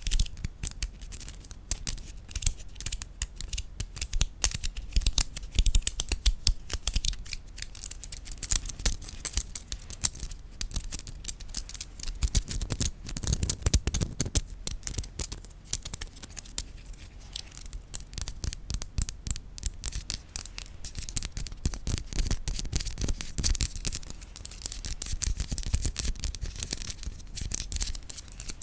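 Rapid, dense tapping on wooden objects: crisp clicks, with softer low knocks around the middle and again near the end.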